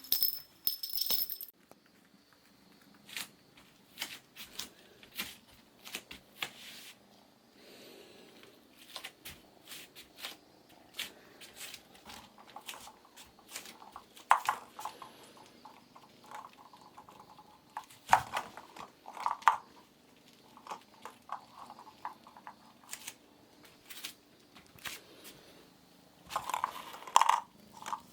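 Kittens playing with small toys: irregular clicks, taps and rattles, with a brief ringing jingle at the start and louder clusters of knocks near the middle and near the end.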